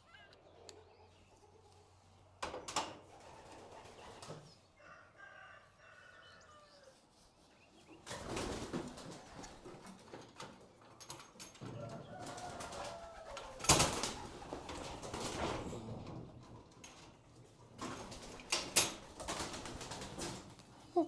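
Young racing homer pigeons flapping their wings in several short flurries, with soft cooing between them; the loudest is a sharp clap about two thirds of the way in.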